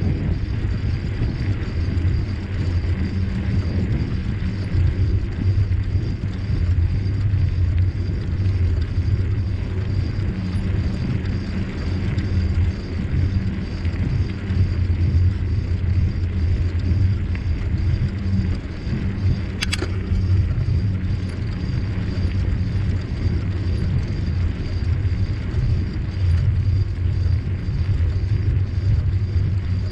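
Steady low rumble of a moving bicycle ride: wind buffeting the microphone and tyres rolling over the trail. One brief sharp click comes about twenty seconds in.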